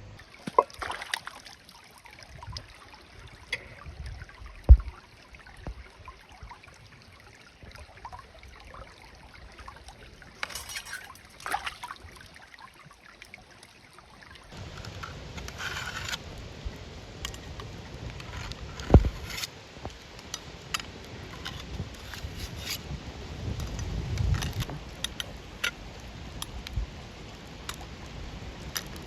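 Scattered clicks, taps and knocks of cookware and utensils being handled, with a couple of heavier thuds, over a soft outdoor background that gets louder about halfway through.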